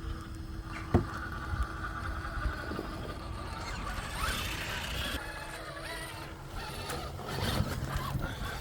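Electric motor and geared drivetrain of an Axial SCX6 Honcho 1/6 scale RC rock crawler whining as it drives, its wheels churning in mud. A single sharp knock about a second in.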